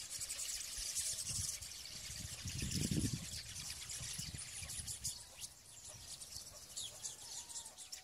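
Birds chirping faintly, with a brief low rumble about three seconds in.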